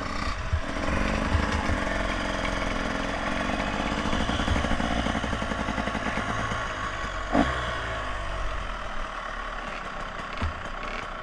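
Motorcycle engine running steadily at low revs, its note easing off in the second half, with a single sharp knock about seven seconds in.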